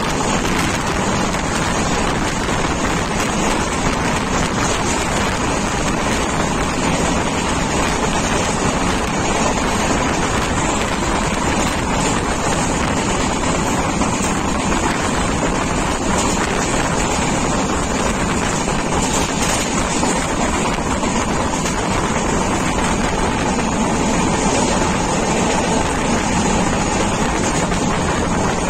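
Steady running noise of an express passenger train at speed, heard from an open doorway or window: wheels on the rails with wind rushing past.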